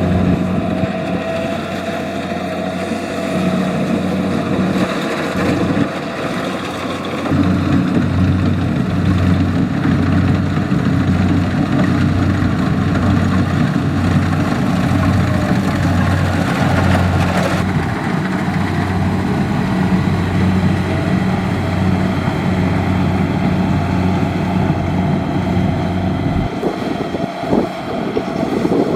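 Kubota DC70 Plus rice combine harvester running in the field: its diesel engine and threshing machinery give a loud, steady drone with an even low pulsing. The low hum drops away near the end.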